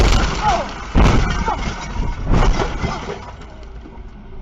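Car crash: a loud impact at the start, a second heavy impact about a second in and another about two and a half seconds in, with crashing noise between them that dies down after about three seconds.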